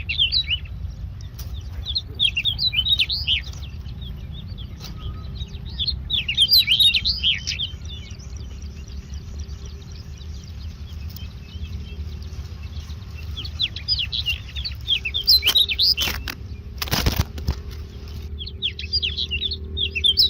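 Indian myna chicks giving bursts of high, rapid begging chirps, several times, as the parent feeds them at the nest. Around two-thirds of the way through come a few knocks and a brief rustle, over a steady low rumble.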